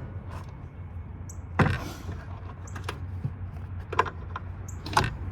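A few sharp metallic knocks and clanks, with lighter clicks and short squeaks between them, as tools and parts are handled on a metal power-supply chassis, over a steady low hum.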